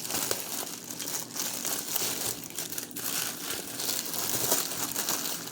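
Plastic food packaging crinkling and rustling as it is handled and opened, a dense run of small crackles.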